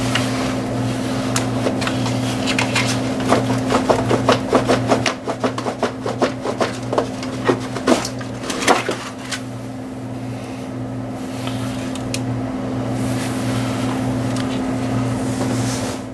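A pry bar knocking and clicking against the alternator as it is levered off a BMW 325xi engine, with a run of irregular sharp knocks through the middle. A steady low hum runs underneath.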